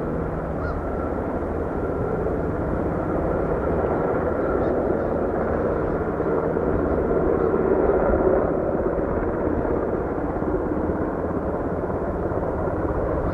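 Aircraft engines running with a steady noise that swells slightly midway and eases again.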